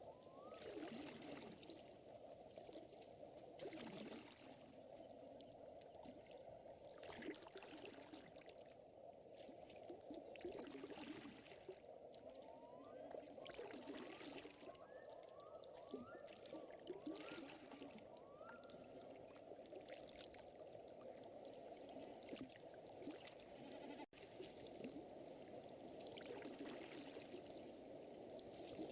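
Faint lakeside water lapping and trickling, with short rising chirps now and then.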